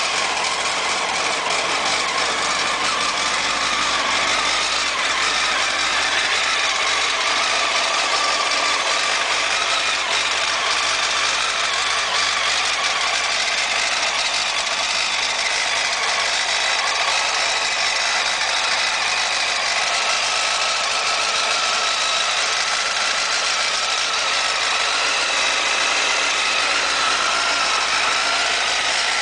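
2000 Honda CBR929RR's inline-four engine idling steadily just after starting, with the odd noise that the owner wants identified.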